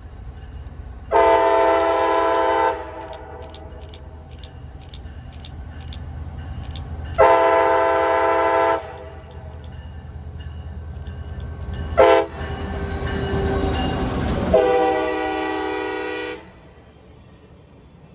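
Locomotive horn on CSX's geometry train sounding the grade-crossing signal: two long blasts, a short one, then a long one. Under it the low rumble of the locomotive and train builds as it passes at track speed, then falls away with the end of the last blast.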